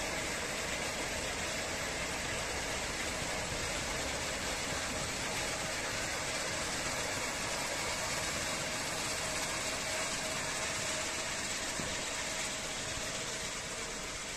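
A machine running steadily: an even hiss with a faint constant hum, with no change in speed.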